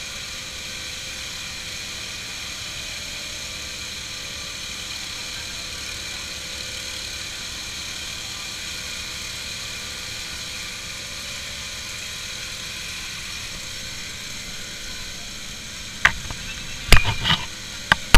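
A vehicle engine running steadily, with an even drone. Several loud sharp knocks come near the end.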